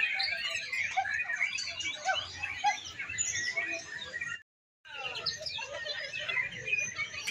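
Many songbirds singing at once, a dense overlapping chorus of chirps, trills and whistles from competing birds. The sound breaks off completely for about half a second just past the middle.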